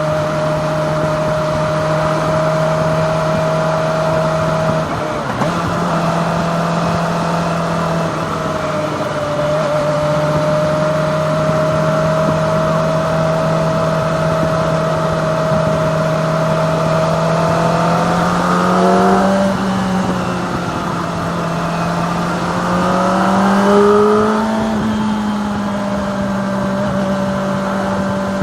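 Kawasaki Ninja ZX-25R's 250cc inline-four engine running steadily while riding, with wind noise; the engine note climbs in pitch twice, about two-thirds of the way through and again near the end, settling slightly higher after the second climb.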